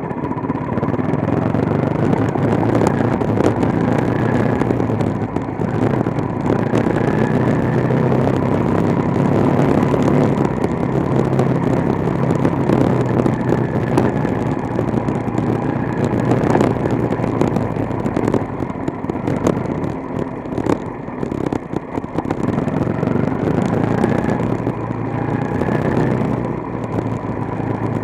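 Quarter midget speedway car's small engine running steadily under way on a dirt track, heard loud and close from the car itself.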